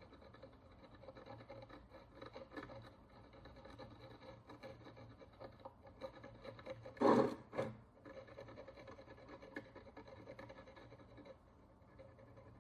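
Faint scraping and rubbing of a small hand tool working the dirt and oxidation crust off a bronze Roman coin, with two short louder sounds about seven seconds in.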